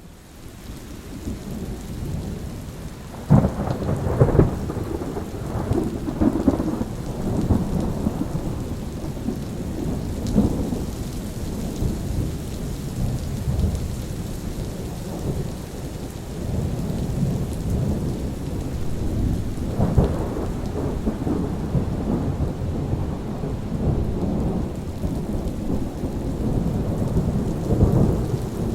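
Steady rain with rolling thunder. The sound fades in over the first couple of seconds; a sharp thunderclap about three seconds in sets off a long low rumble, and another loud crack comes about two-thirds of the way through.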